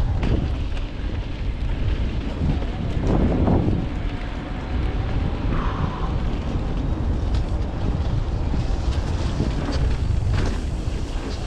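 Wind rushing over a helmet-mounted action camera's microphone as a Trek Rail electric mountain bike rolls over a wet, rocky trail, with tyre noise and scattered clicks and knocks from the bike and the ground.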